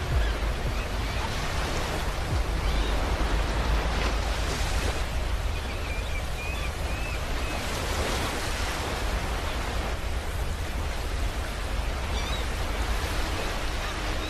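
Ocean waves washing onto a beach: a continuous rush of surf that swells and eases gently.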